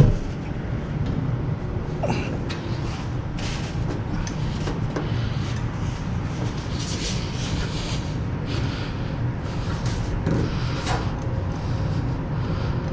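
Faint clicks and scraping of a steel brake line being worked into place while its flare nut is threaded into a fitting, over a steady low hum.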